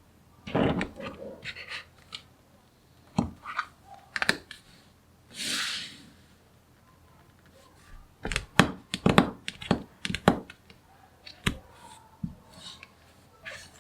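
Small magnetic balls clicking and snapping together in irregular bursts as they are handled and placed, with a brief scraping hiss about five and a half seconds in.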